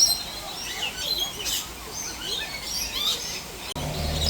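Aviary parrots chirping and giving short, high squawks, many calls overlapping. About three-quarters of the way through, a steady low hum cuts in abruptly.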